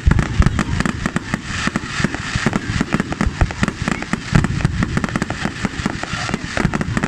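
Fireworks going off in a dense, irregular run of many sharp bangs and crackles a second.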